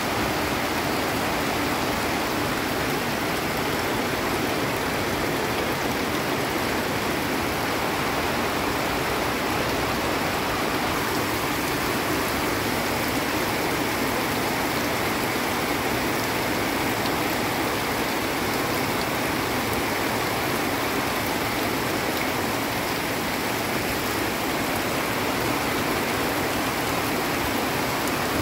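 Torrential rain pouring steadily on foliage and ground, a constant rushing hiss, with muddy runoff water rushing down the slope.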